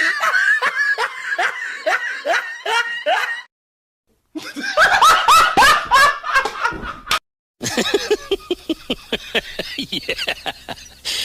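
Three laughing sound-effect clips in a row, each cut off cleanly by a brief gap of silence. First comes a laugh of evenly spaced ha-ha bursts, then a laugh whose bursts fall in pitch, then a rapid snickering laugh of many quick pulses.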